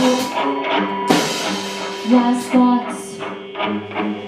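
Rock band playing live: guitar and drum kit, with a cymbal crash about a second in.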